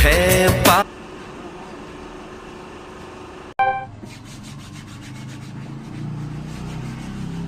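Bollywood song music cuts off about a second in, leaving a low, steady background. About halfway through, a vehicle horn gives one short beep.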